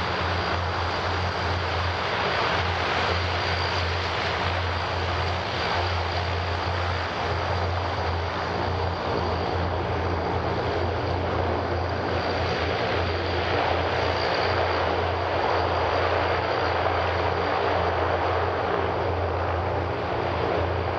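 Antonov An-32's twin Ivchenko AI-20 turboprop engines running steadily while the aircraft taxis, a continuous drone with a strong low hum and a faint high whine.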